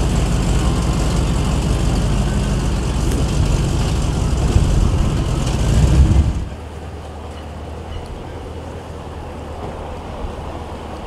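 A muscle car's V8 engine running loudly at close range, surging briefly about six seconds in, then dropping away suddenly to a quieter, steady low engine hum.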